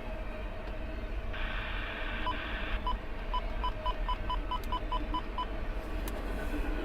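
Railroad radio heard through a scanner: a burst of radio static about a second in, then a string of about a dozen short, evenly pitched beeps over the next three seconds, over the steady low rumble of the passing train.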